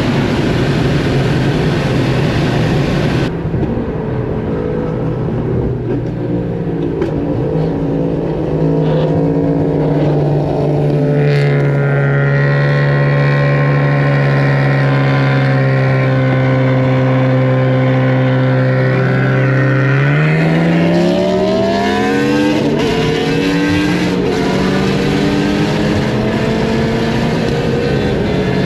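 A car engine pulling along at a steady speed, with a broad hiss over it. The hiss drops away suddenly a few seconds in. The engine holds one even note for several seconds, then rises in pitch as the car accelerates, about two-thirds of the way through.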